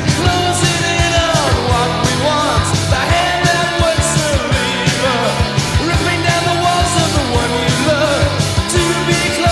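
Post-punk rock band recording: a steady drumbeat with bass and guitar under a sung vocal line.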